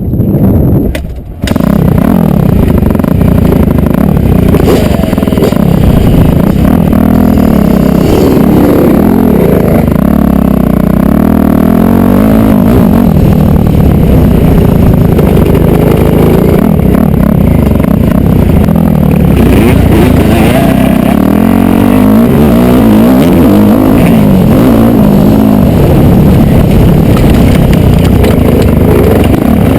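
Motocross dirt bike engine revving hard on the track, its pitch climbing and falling over and over through throttle and gear changes. There is a short dip about a second in, then it runs loud without a break.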